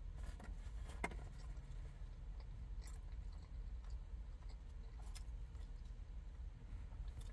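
A person chewing and eating takeout food close to the microphone, with a few sharp clicks about a second, three and five seconds in, over a steady low rumble.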